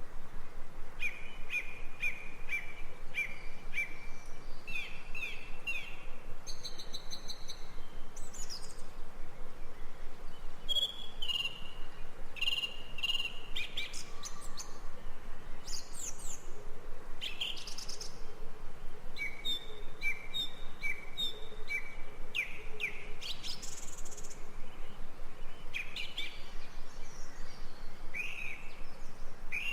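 Recorded birdsong from a nature-sound track: several birds chirping and calling in short repeated phrases throughout, over a steady background hiss.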